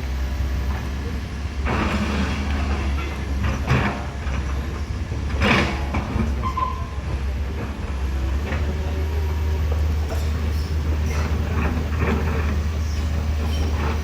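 Heavy truck engine running with a steady low rumble, with a few short bursts of hiss and rattle over it.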